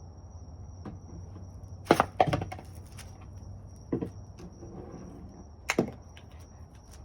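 Objects being handled and set down: a few sharp thuds and clatters, the loudest a quick pair about two seconds in, then single knocks about four and six seconds in.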